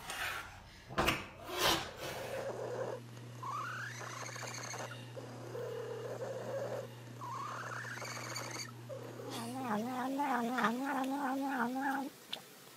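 A domestic cat yowling: two drawn-out calls that rise in pitch, then a longer call near the end that warbles up and down in pitch, after a few knocks at the start.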